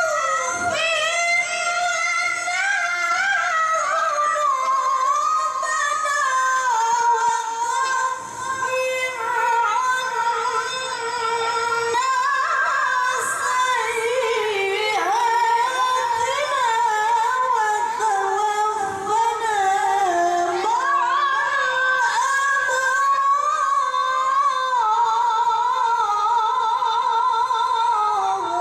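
A woman reciting the Quran in the melodic tilawah style, holding one long ornamented phrase in a high voice. Her pitch wavers in quick trills and slowly descends, with a short break about eight seconds in.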